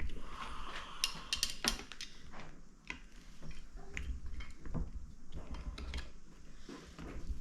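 Irregular light metallic clicks and clinks of hand tools and small parts being handled while a Stromberg carburettor is put back together, with a brief scraping sound in the first two seconds.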